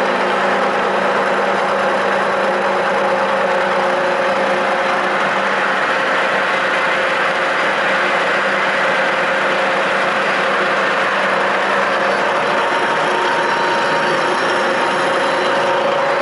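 Metalworking machine tool running steadily under power feed, a constant mechanical hum with several steady tones. The lowest tone drops away about twelve seconds in.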